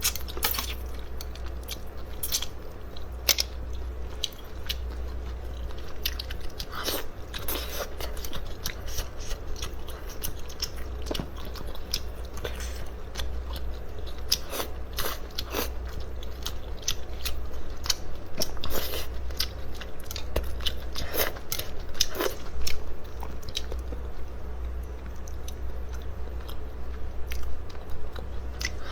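A person chewing and biting food, with many irregular crunchy clicks, over a steady low hum.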